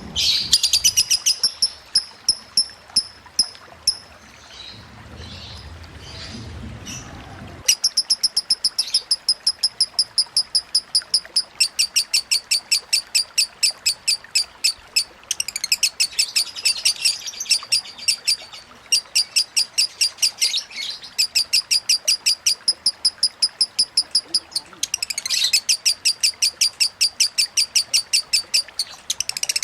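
Lovebird singing in the chattering 'konslet' style: long, almost nonstop strings of rapid, sharp high chirps, breaking off only briefly now and then.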